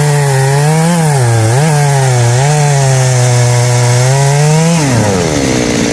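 Two-stroke chainsaw running at high revs while cutting wood, its pitch sagging as the chain bites and recovering several times. Near the end the revs drop steeply as the throttle is released, and it settles toward idle.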